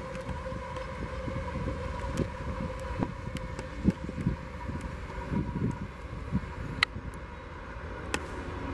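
Distant rumble of a CSX coal train's diesel locomotives approaching, with wind buffeting the microphone and scattered short knocks.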